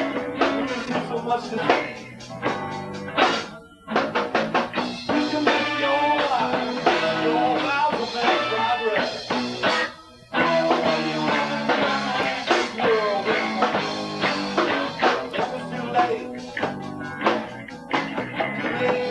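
Live rock band of electric guitar, bass guitar and drums playing an instrumental passage, the guitar bending notes. The band cuts out briefly twice, about four and ten seconds in.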